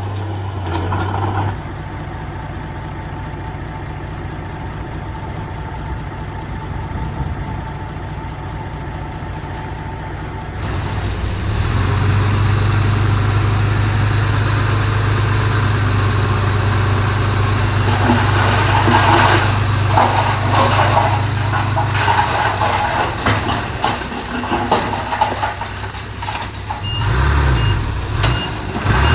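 Heavy diesel earthmoving machinery running steadily, its engine growing louder about a third of the way in. Bursts of crackling and crunching come in the second half, and a repeating high beep sounds near the end.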